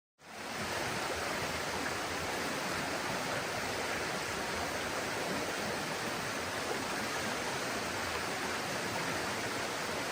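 Steady rushing of water, fading in over the first half second and then holding level.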